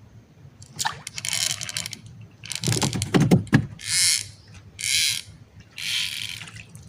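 Handling noises: a rustling scrape about a second in, a clattering rattle around the middle, then three short scraping rustles about a second apart.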